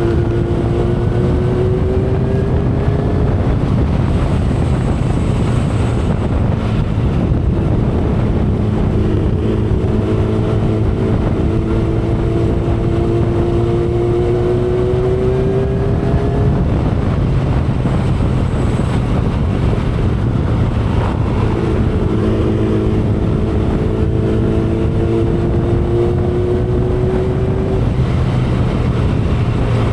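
2012 Kawasaki Ninja ZX-10R's inline-four engine running at speed, its pitch climbing slowly three times and dropping back between the climbs, under steady wind rush on the microphone.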